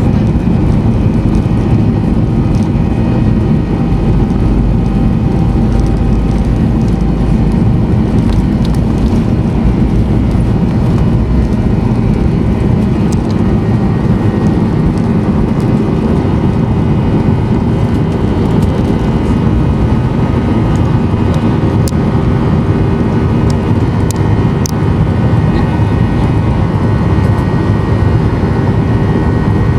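Steady engine noise heard inside the cabin of a Boeing 737-800, its CFM56-7B jet engines running at a constant setting: a deep, even rumble with a few steady tones over it, unchanged throughout.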